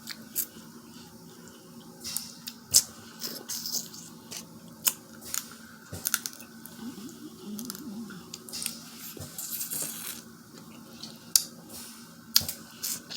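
Close-up eating noises: crab leg shells cracking and being picked apart by hand, with wet squishing and smacking, heard as an irregular string of sharp clicks and crackles.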